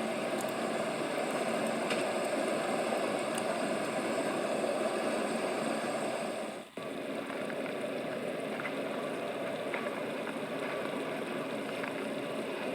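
A steady engine-like rumble that cuts out for an instant about halfway through and then carries on.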